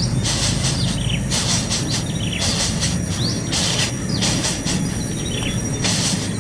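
Birds chirping in quick repeated hissy bursts, about two a second, with short falling chirps among them.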